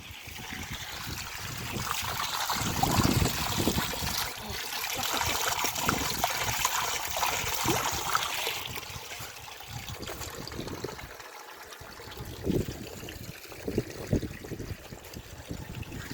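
Water trickling and running in a small stream, an even splashing hiss, with irregular low rumbles of wind on the microphone.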